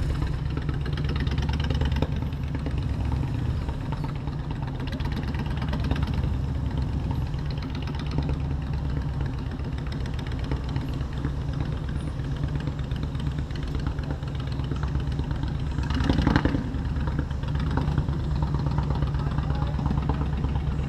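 Motorcycle engine running steadily at low revs, with a brief louder burst of noise about 16 seconds in.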